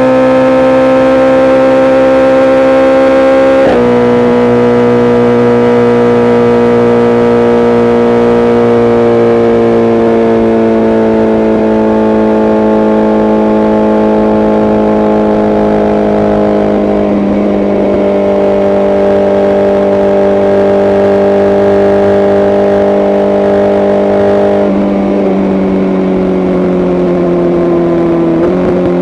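BMW S1000RR inline-four sport bike, tuned with its exhaust sound unlocked, running at a steady cruising speed. The engine note holds a nearly constant pitch, easing down slowly and dropping in a few abrupt steps as the revs change.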